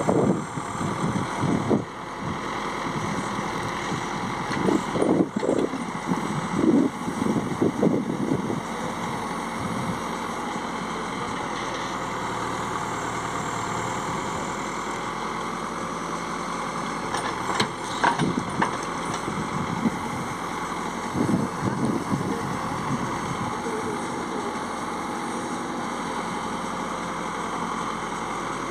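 Heavy diesel engine of the working machinery running steadily near idle, with a few short louder bursts of noise along the way.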